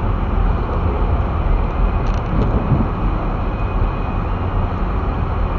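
Steady rumble of a car driving on snow-covered streets, engine and tyre noise heard from inside the cabin.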